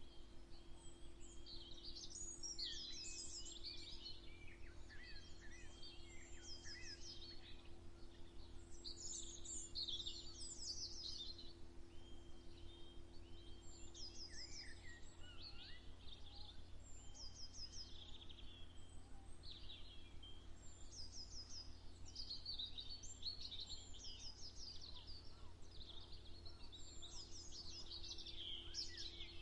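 Several birds singing and calling at once: many overlapping quick chirps and trills throughout, over a low steady hum.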